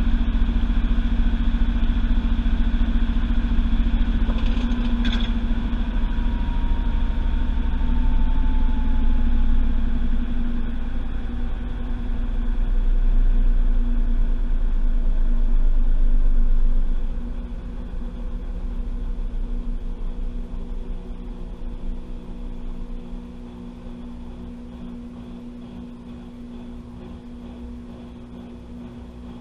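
Washing machine drum spinning, heard from inside the drum: a loud rumble with a whine that falls slowly in pitch as the spin winds down. The rumble drops off sharply a little over halfway through and settles into a quieter steady hum.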